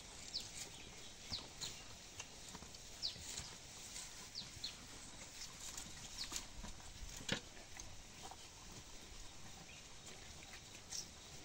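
Faint small birds chirping: scattered short, high, falling chirps, sometimes two or three close together, over a low hiss. There are occasional soft knocks, with a sharper one about seven seconds in.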